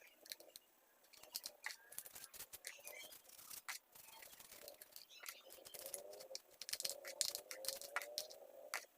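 Quick, irregular clicks, scratches and scraping from hands working on and cleaning the parts of a mini chainsaw, with a faint wavering voice-like tone in the second half.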